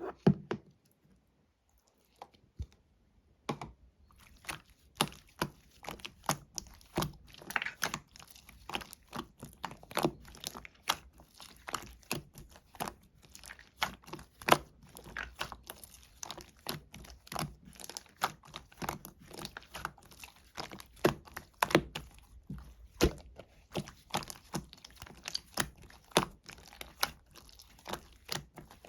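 Orange slime being worked by hand, the air bubbles trapped in it popping in quick, irregular crackles and clicks. Only a few pops in the first few seconds, then steady crackling.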